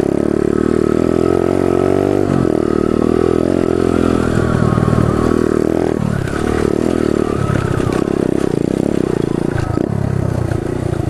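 Pit bike's small engine running under a rider on rough ground, the revs rising and falling as the throttle is opened and eased off several times.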